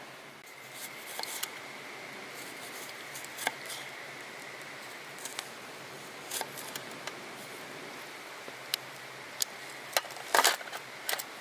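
Open wood fire crackling: irregular sharp pops and snaps, more of them near the end, over a steady rushing background.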